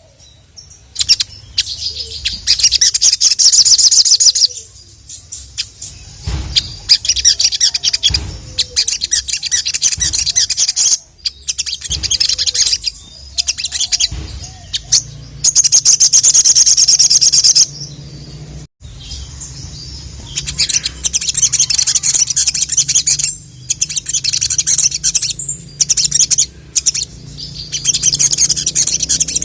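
Sogok ontong (brown-throated sunbird) in full song: long, fast, high-pitched trills lasting a few seconds each, three times, with shorter chirps and twitters between them. Energetic, loud singing of the kind kept as a lure to call in males.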